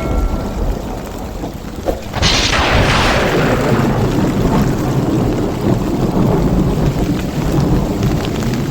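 A sharp thunderclap about two seconds in, fading into a long rolling rumble, over steady falling rain.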